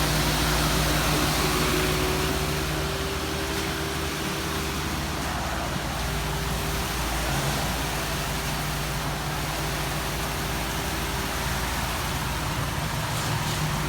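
Steady mechanical hum: an even low drone with a couple of held tones, unchanging in pace, the higher tone fading out near the end.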